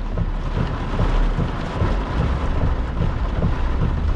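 Wind and heavy rain of a tornadic storm's circulation hitting a moving vehicle: a steady rushing noise over a deep low rumble.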